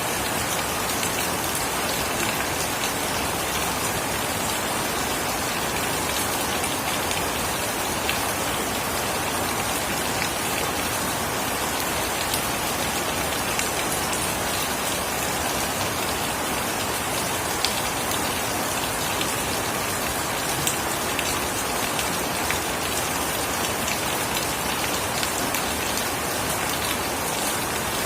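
Steady rain falling and pattering on surfaces, with a dense scatter of individual drop ticks.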